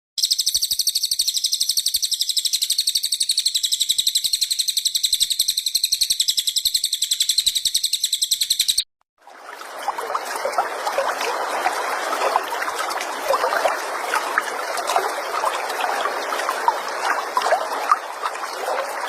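Recorded songbird song played as masteran training material: a fast, high pulsing trill for about nine seconds, then, after a brief cut, a busy chatter of short, sharp calls.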